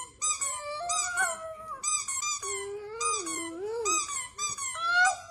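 Several dogs whining and howling together: high, wavering cries that rise and fall in pitch and overlap, breaking off and starting again every second or so.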